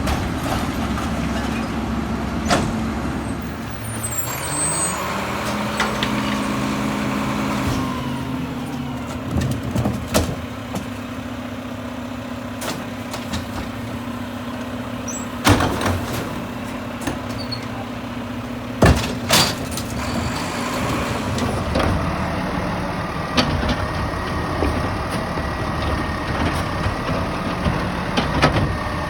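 Garbage truck's diesel engine revving up about four seconds in and holding a raised, steady speed. A few loud metallic bangs come through the middle.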